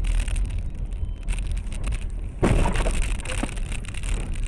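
Car on a winter road heard from a dashcam: a steady low rumble with crackling, and a sudden louder noise about two and a half seconds in.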